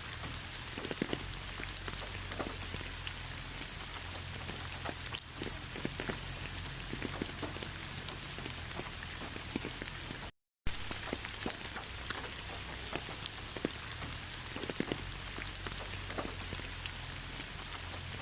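Steady rain falling, with many individual drops landing close by. The sound cuts out completely for a split second about ten seconds in.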